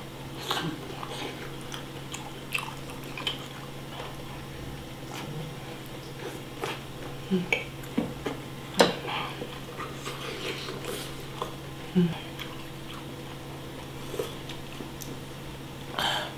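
Close-up eating sounds: biting into and chewing soft skewered fish cake (eomuk), with many short wet mouth clicks and smacks. Near the end a metal spoon scrapes in the soup pot.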